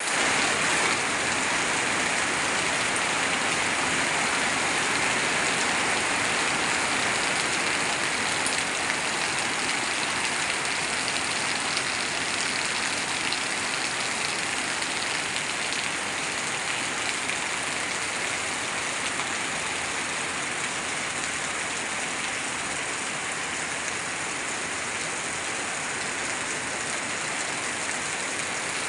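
Heavy rain falling steadily on leaves, grass and concrete, with runoff pouring off a roof edge and splashing onto the ground. An even, unbroken hiss that eases slightly toward the end.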